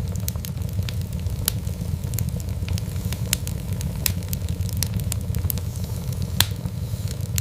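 Fireplace fire crackling: a steady low rumble with frequent sharp crackles and a few louder pops.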